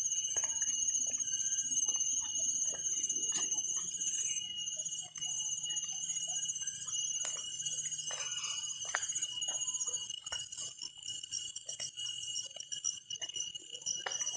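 Evening chorus of insects: steady high-pitched chirring and trilling that goes on throughout, with scattered short clicks.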